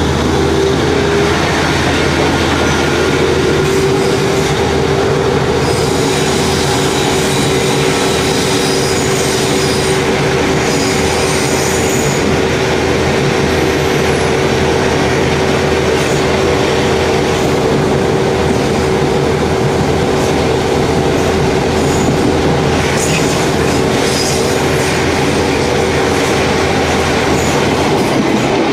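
NSW 620/720-class diesel railcar running along the track: a steady low engine and transmission drone with a held mid-pitched whine over the noise of wheels on rail.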